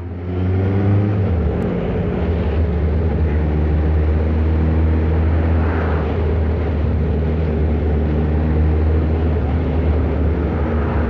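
Kawasaki ZR-7's air-cooled inline-four engine running at a steady cruise while riding, heard from on the bike with wind rushing over the microphone.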